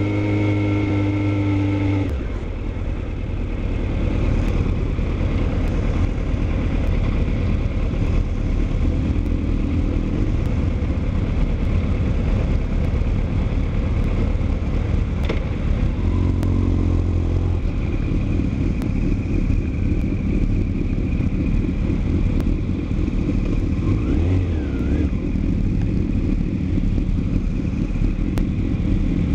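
Motorcycle engine running while riding, under a steady low rumble of wind and road noise. A clear engine tone in the first couple of seconds drops away, and brief engine tones come through again about halfway.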